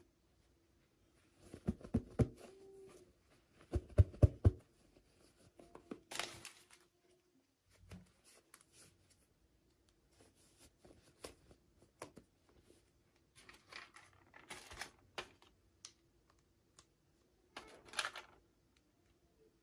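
Hands unboxing small plastic toys: packaging rustling and crinkling, with clicks and taps of small parts. There are heavier knocks against the table about two and four seconds in.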